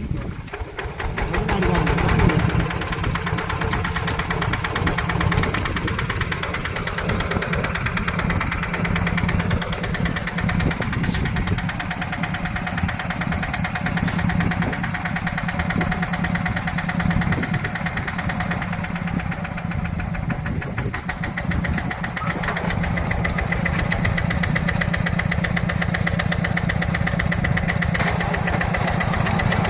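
Yanmar tractor's diesel engine revving up about a second in, then running steadily with a dense, even chugging.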